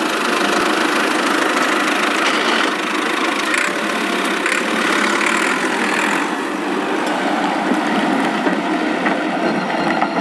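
An engine running at a steady idle with no change in speed, heard with little deep bass.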